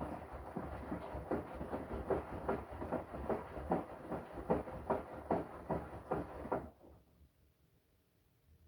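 Washing machine drum turning through the wash, with water and laundry sloshing in a steady rhythm of about two to three swishes a second. It stops abruptly near the end.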